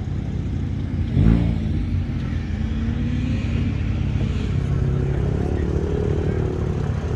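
A car engine running steadily, with a short loud rev about a second in.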